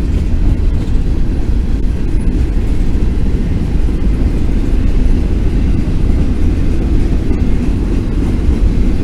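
Loaded freight train rolling slowly past on the climb, its cars' wheels making a steady, loud rumble on the rails.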